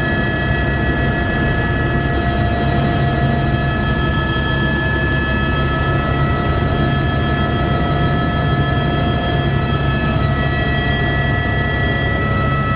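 Helicopter cabin noise in flight: a steady rotor and engine drone with a high turbine whine over it, some of whose tones shift about ten seconds in.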